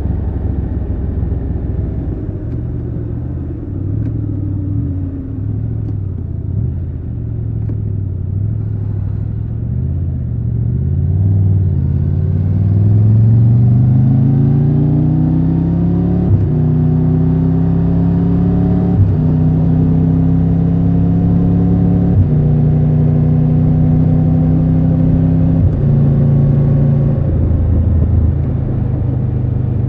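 Triumph Tiger 1200 Rally Pro motorcycle's three-cylinder engine, heard raw while riding: it runs low and uneven for about ten seconds, then pulls away with a rising note. Several quick breaks in the note follow as it shifts up through the gears, and it eases off to a lower steady note near the end.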